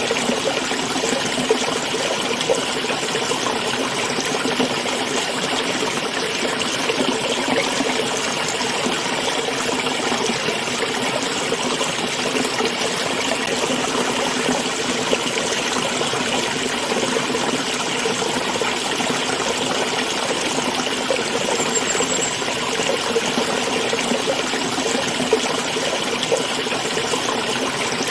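Small stream flowing and trickling, a steady even rush of water with faint splashes.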